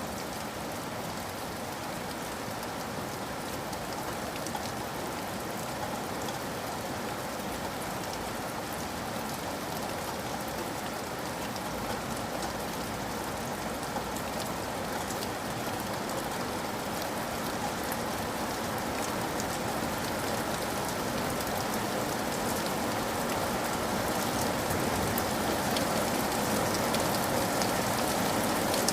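Steady rain falling, with many individual drops ticking, slowly growing louder.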